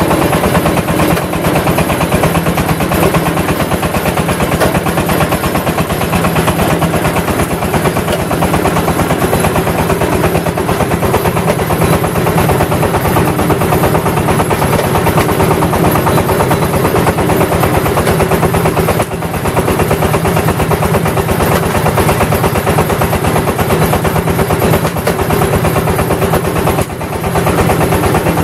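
Engine-driven clay brick press machine running steadily, its engine chugging in a fast, even beat. The level drops briefly twice, once past the middle and once near the end.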